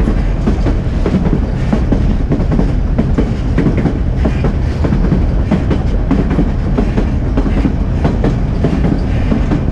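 Narrow-gauge passenger railcar rolling along the track, heard from on board: a steady low rumble with many irregular clicks and knocks of the wheels on the rails.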